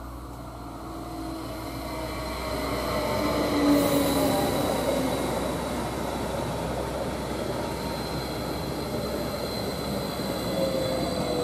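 An electric multiple unit (Stadler FLIRT) passes close by on the rails. It grows louder to a rush about four seconds in. Its motor whine then falls slowly in pitch as the cars run past, over the steady sound of the wheels on the track.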